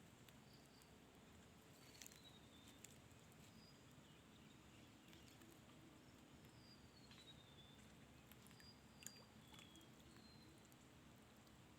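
Near silence outdoors, with faint scattered bird whistles: a few short notes, some gliding down in pitch, and a few faint clicks.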